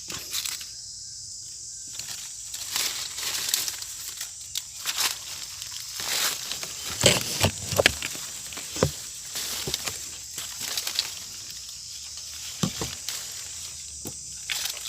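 Dry mango leaves and twigs rustling and crackling as they are handled or trodden on, with scattered sharp snaps and clicks.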